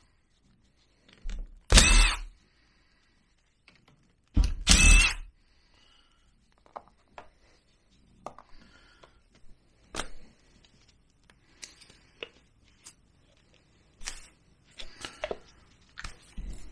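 Power driver whirring briefly twice, about two seconds in and again about five seconds in, backing out small screws; its pitch glides as the motor speeds up and slows. Faint clicks and taps of screws and small metal parts being handled follow.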